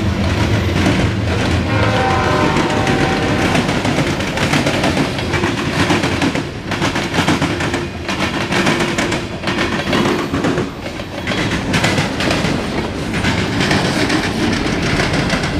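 Freight cars of a passing mixed freight train rolling by close: a steady rumble of steel wheels on the rails with clickety-clack, dipping briefly as gaps between cars go by. A short high ringing note sounds a couple of seconds in.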